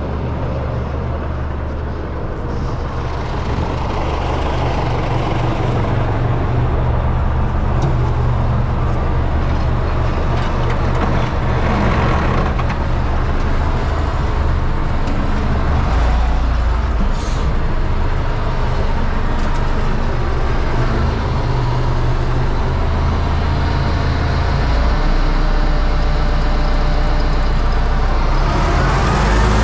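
Universal 650 tractor's four-cylinder diesel engine running steadily, its pitch climbing near the end as it speeds up.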